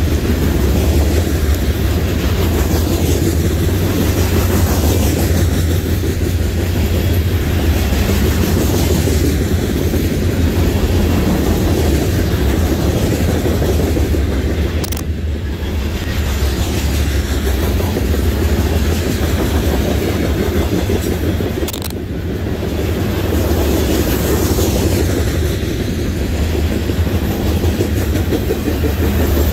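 Loaded coal hopper cars rolling past on steel wheels: a steady heavy rumble with wheel clatter, swelling and fading about every three seconds as each car goes by.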